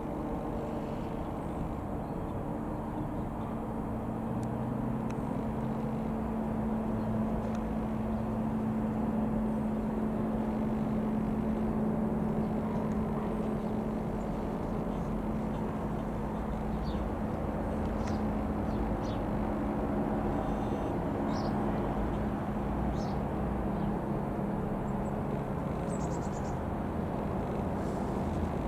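Ikarus C-42 microlight's piston engine droning steadily as the aircraft flies over, growing a little louder over the first ten seconds. A few short bird chirps come in the second half.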